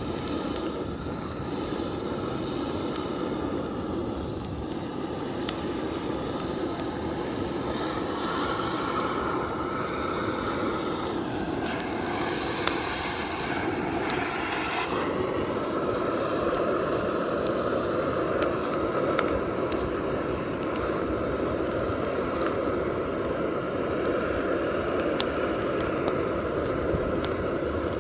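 Oak firewood burning in an open fire: a steady rush of flames with scattered sharp pops and crackles.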